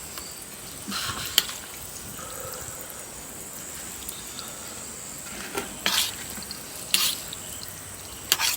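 Wet eating sounds of a person slurping and smacking, in several short bursts over a steady faint hiss, with one sharp click about a second and a half in.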